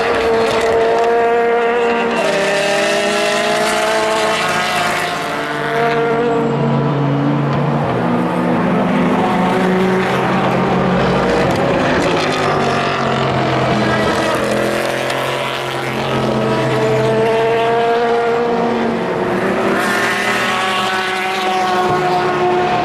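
Engines of several endurance race cars running at high revs as they pass one after another, their pitches overlapping and shifting, with short lulls about five and sixteen seconds in.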